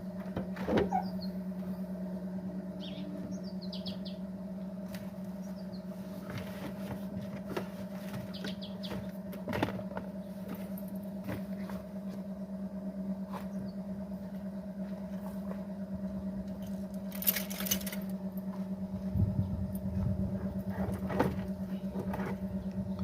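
Car engine idling with a steady hum, with scattered knocks and clicks and a brief hiss about three quarters of the way through. A few faint chirps sound near the start.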